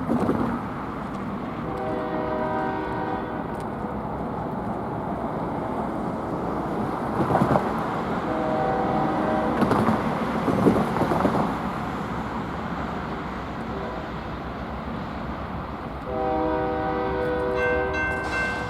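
Diesel freight locomotive's multi-chime air horn sounding three times, the last blast the longest, over the steady rumble of the train.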